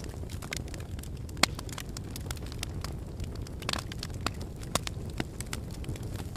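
Wood fire in a fireplace crackling, with irregular sharp pops over a steady low rumble of burning; the sharpest pop comes about one and a half seconds in.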